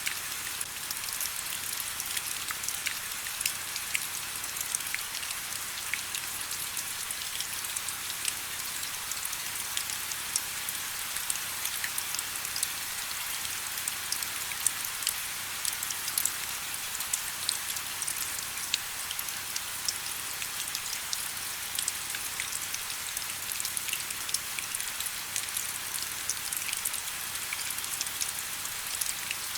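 Steady rain, an even hiss peppered with many distinct drops ticking on surfaces.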